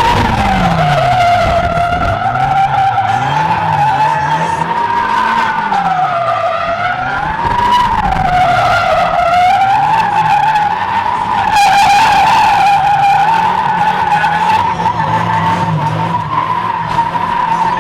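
Drift racing game audio from a car-simulator rig: a continuous tyre screech wavering in pitch over an engine note that revs up and down about once a second.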